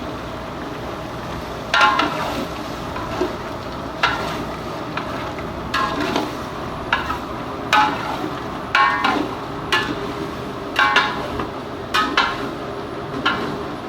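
Metal spoon scraping and knocking against a cooking pot while chicken gizzards are stir-fried during bhuna, the strokes coming irregularly about once a second from about two seconds in, over a steady hiss.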